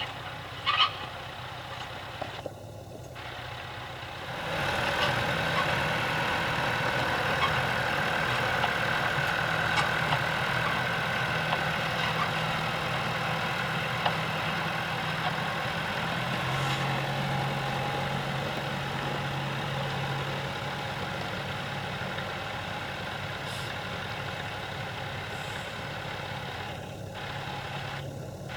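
Tractor engine running steadily, becoming clearly louder about four seconds in and then holding at that level.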